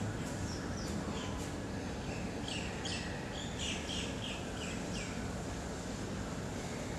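Small birds chirping: a couple of short, falling chirps, then a quick run of about eight falling chirps around the middle, over a steady low background noise.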